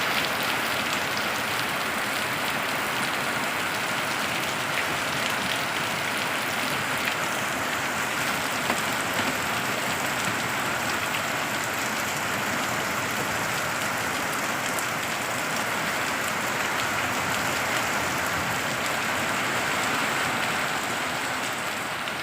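Steady rain falling, an even hiss with a faint patter of drops, easing slightly near the end.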